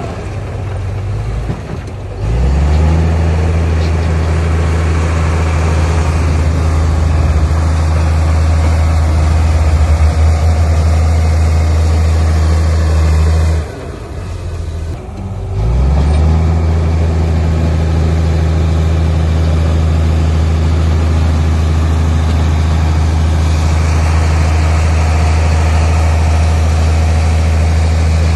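Heavy diesel engine of earthmoving machinery revving up about two seconds in and holding a steady high-revving drone, dropping back briefly around the middle before revving up and holding again.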